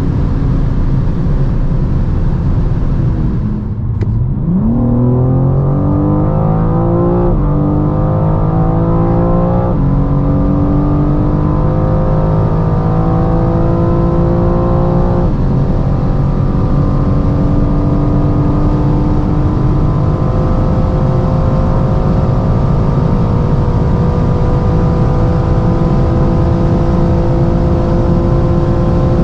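2021 BMW M4 Competition's twin-turbo inline-six under full-throttle acceleration from about 100 to 200 km/h. The engine note dips about four seconds in and then climbs in pitch, dropping sharply at three quick upshifts; after the last one it rises slowly through a long final gear.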